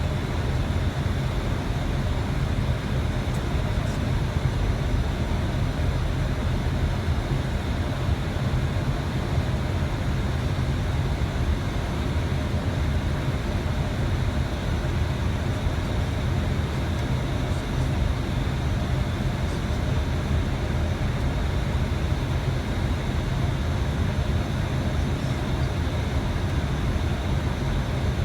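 Steady flight-deck noise of an Airbus A320 on final approach: a constant rush of air with a strong low rumble beneath it.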